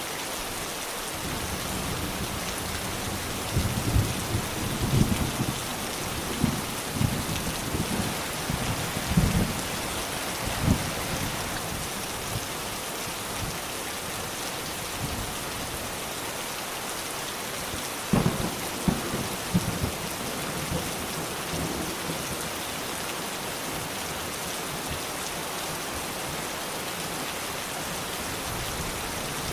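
Steady heavy rain hissing, with bursts of low thunder rumble from about four to eleven seconds in and again briefly around eighteen to twenty seconds in.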